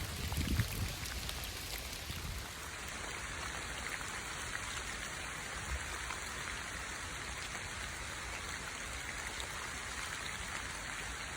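Steady rain falling, an even patter of drops, with a few low thumps in the first two seconds.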